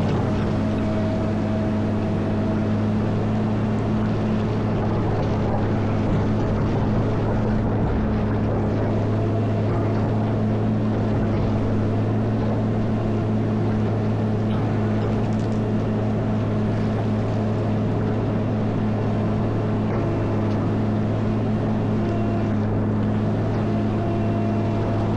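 Caterpillar 140M motor grader's diesel engine running steadily under load, a deep even drone with a low hum that holds its pitch.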